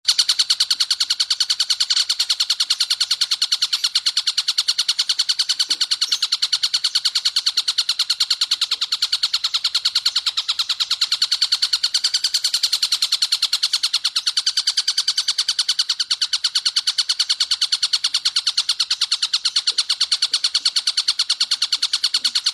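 Kingfisher ('tengkek buto') call: a long, very fast run of rapidly repeated high notes, held without a break.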